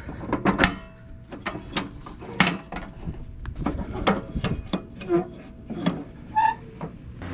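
Irregular metallic clanks, clicks and knocks, a dozen or so in a few seconds, some with a short ringing tone: metal mower-deck parts being handled.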